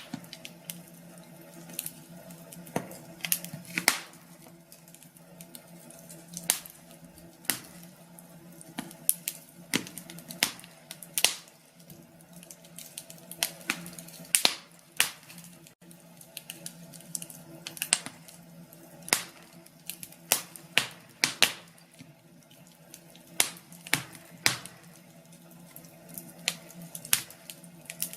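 Wood fire crackling in a fireplace: irregular sharp pops and snaps, at times several a second, over a faint steady low hum.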